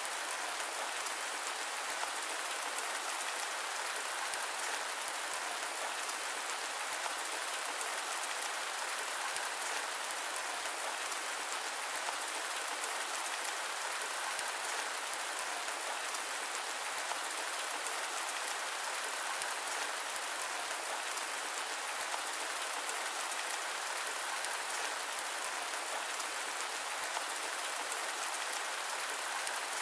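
Steady rain falling on a surface, a dense even patter mixed with a bright hiss like white noise, with no rumble or thunder.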